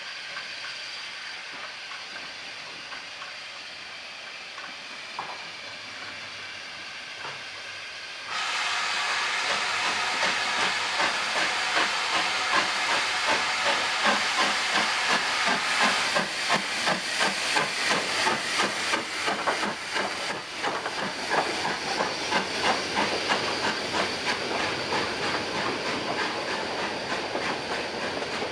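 Steam locomotive hissing steam, then about eight seconds in a sudden loud rush of steam with regular exhaust beats as it pulls away.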